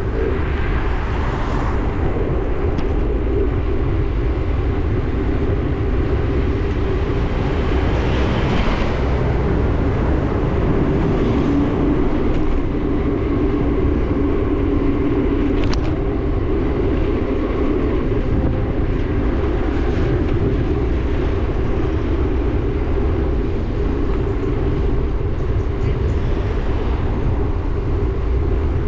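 Wind rushing over the microphone and steady road noise while riding a bike, with a few brief higher sounds from passing traffic.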